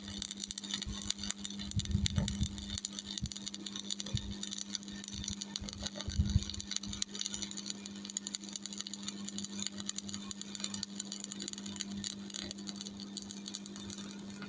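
Stick-welding arc from an E6013 3.2 mm rod on a Miller Thunderbolt 225 AC welder, crackling steadily with a few louder pops, over a steady welder hum. The crackle cuts off right at the end as the arc is broken.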